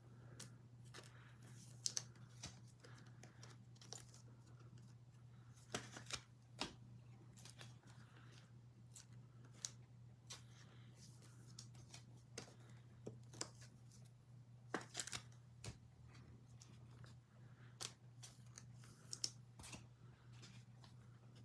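Faint handling of trading cards and packs: scattered soft clicks and rustles, over a steady low hum.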